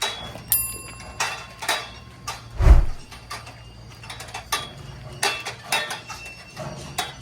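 Irregular clattering knocks and clicks over a steady low hum, with one heavy low thump about two and a half seconds in.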